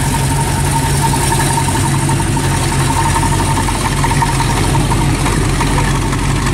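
Chevrolet El Camino's engine idling steadily, with a thin steady whine running alongside it.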